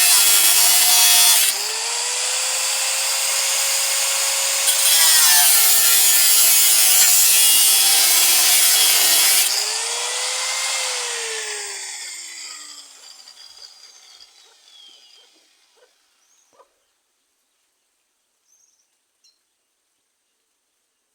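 Angle grinder cutting into pickup sheet metal: a harsh grinding noise that eases off for a few seconds and comes back. About ten seconds in, the trigger is released and the disc spins down with a falling whine that fades out.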